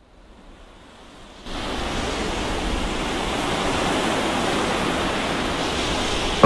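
Steady rushing of water, of the kind used for flood footage: faint at first, then much louder and even from about a second and a half in.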